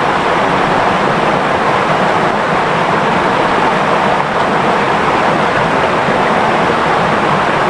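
Clear shallow river flowing and babbling steadily, an even, continuous rush of water.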